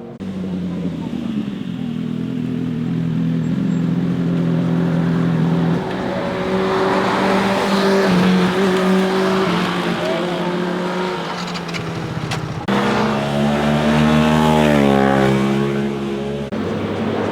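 Motorcycle engines running past, revving with the engine note rising and falling as the riders work the throttle through the corners. The sound changes abruptly about two-thirds in and again near the end, where the pitch wavers up and down quickly.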